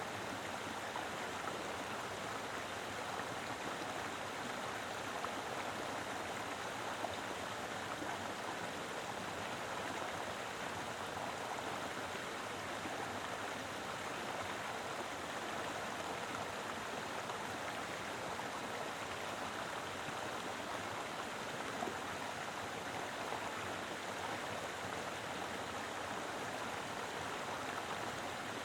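Mountain river flowing steadily over rocks: a continuous, even rush of water.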